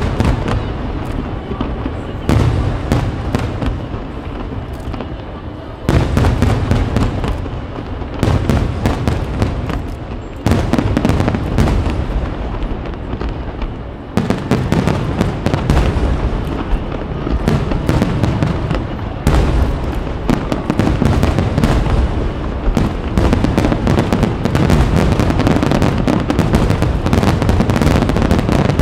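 Aerial firework shells bursting in a dense, continuous barrage of low booms and rapid crackling, with fresh volleys surging in about 6, 10, 14 and 19 seconds in.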